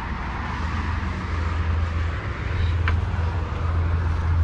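2005 Kia Amanti's V6 engine running with a steady low hum. There is a single sharp click about three seconds in.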